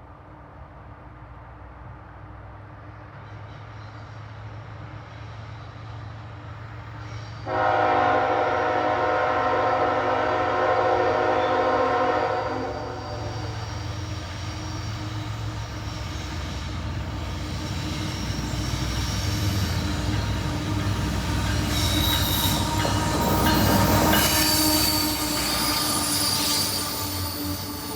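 A freight train's diesel locomotives approach with a rumble that grows louder. About seven seconds in, the locomotive's multi-note air horn sounds one long blast of about five seconds. The train then passes, with wheel squeal and rail noise building toward the end.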